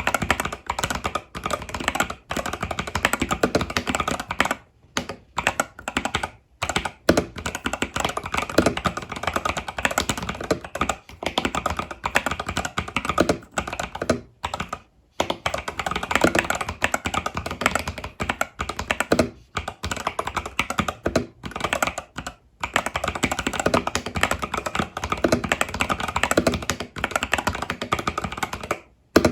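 Fast continuous typing on an Epomaker TH80 Pro mechanical keyboard with Epomaker Budgerigar tactile switches and stock keycaps, a dense run of key clacks broken by a few brief pauses.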